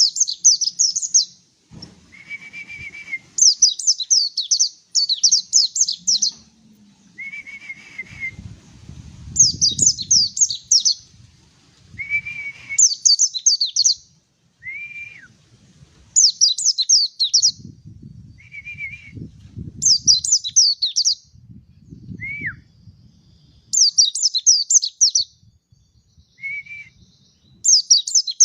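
Mountain white-eye singing: short, rapid phrases of high twittering notes repeated every two to three seconds, with lower single whistled notes between them, a couple gliding downward. A low rumble comes and goes underneath.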